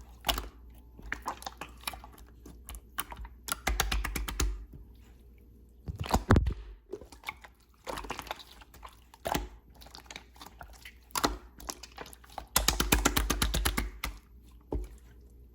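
Slime being pressed and squeezed by hand, giving off crackling, popping clicks: scattered single pops, with two dense runs of rapid crackling, about four seconds in and again near the end.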